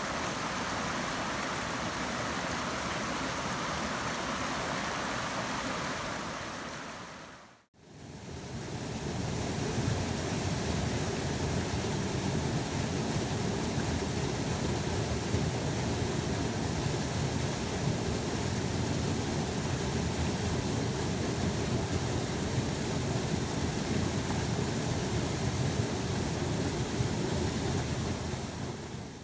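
Steady rush of a small waterfall pouring into a mountain creek. About eight seconds in it fades out and straight back in, and after that it has a deeper rumble.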